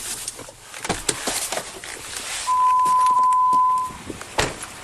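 A single steady electronic beep at one pitch, held for about a second and a half near the middle, among scattered light clicks and knocks.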